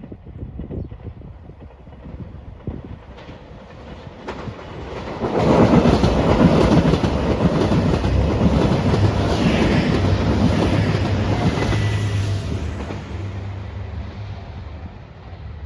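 A train passing close by, its wheels clicking over the rail joints: the sound builds suddenly about five seconds in, stays loud for several seconds, then fades away near the end.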